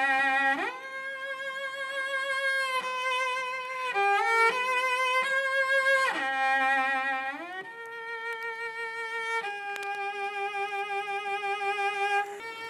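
Solo cello played high on its range: a slow melody of long held notes with vibrato, sliding up and down between several of them.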